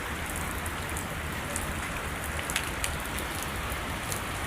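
Steady rain falling, an even hiss with scattered sharp ticks of individual drops; one drop hits louder about two and a half seconds in.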